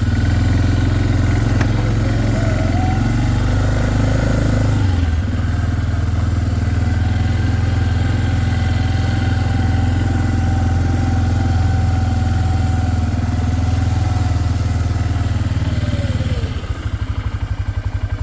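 Engine of a small vehicle being driven. It speeds up with a rising whine about two seconds in, runs steadily, then eases off near the end.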